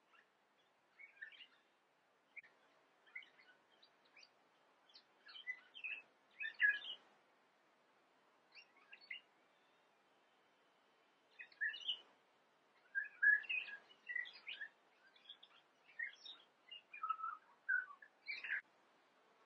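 Small birds chirping and calling in short, scattered phrases, with livelier clusters about a third of the way in and again through the second half, and a brief lull between them.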